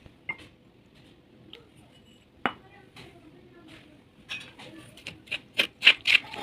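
Brittle baked clay cracking and crunching: scattered sharp clicks with one loud crack midway, then quicker, louder crunches near the end.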